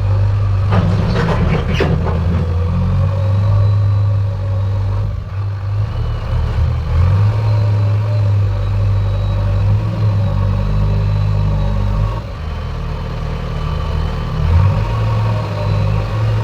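Heavy diesel engine of construction machinery running steadily at a low, even pitch. There is a short burst of clattering about a second in.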